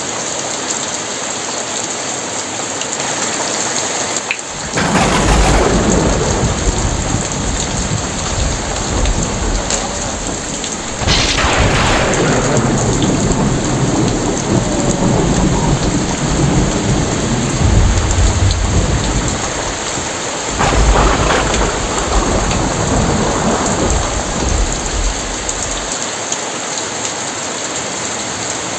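Very heavy rain falling steadily, with thunder. A sudden clap about four seconds in opens a long low rumble; two more claps follow around eleven and twenty seconds in, and the rumble dies away a few seconds before the end.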